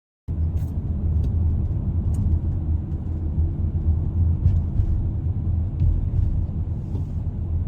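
Steady low rumble of a car being driven: engine and road noise heard from inside the cabin, cutting in abruptly just after the start, with a few faint clicks.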